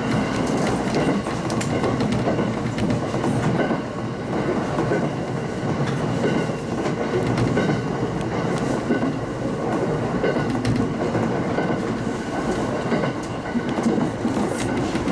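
A local train running along the track: a steady rumble of wheels on rail with repeated rail-joint clicks and a faint steady high whine.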